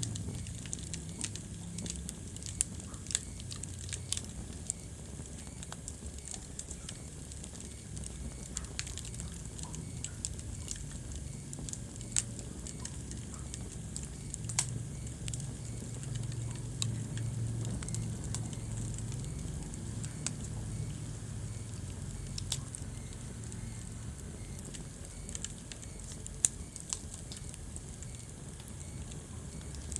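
Wood fire crackling in a fireplace: frequent small snaps, with a few louder pops, over a low steady rumble of the flames.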